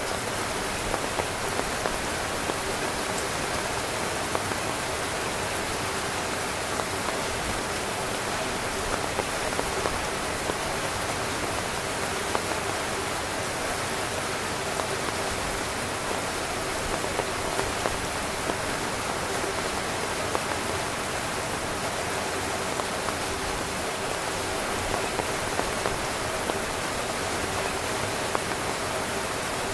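Heavy rain falling steadily on a camping tent: a dense, even hiss with scattered louder drop hits.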